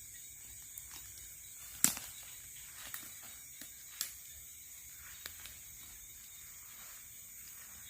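Night insect chorus, crickets shrilling in a steady high-pitched drone. Over it come a few sharp clicks or snaps: the loudest about two seconds in, and fainter ones around three, four and five seconds.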